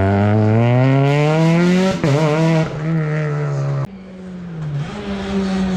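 Rally car engine at high revs, accelerating hard with the pitch climbing, a short dip for a gear change about two seconds in, then climbing again. The sound drops off suddenly about four seconds in, and an engine rises in pitch again near the end.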